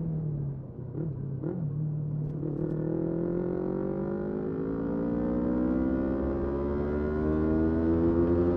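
Motorcycle engine running: its pitch drops in the first second or so, then climbs slowly and steadily through the rest as the bike accelerates.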